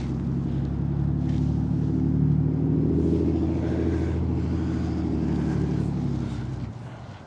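A road vehicle's engine passing by with a steady low hum. It grows loudest about two seconds in, then fades and drops away near the end.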